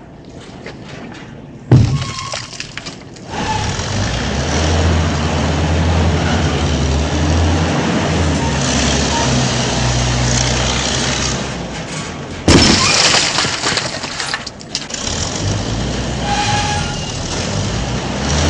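A DIY mini tractor's small motor runs while loose soil rattles and pours from the tipping trolley. There is a sharp knock about two seconds in and another loud clatter near the twelve-second mark.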